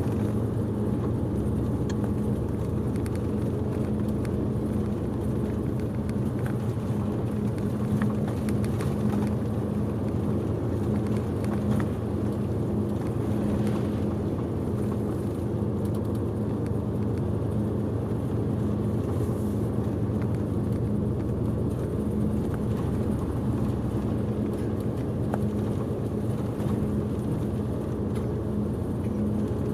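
A coach's diesel engine running steadily with road noise, heard from inside the cabin while driving: a constant low hum.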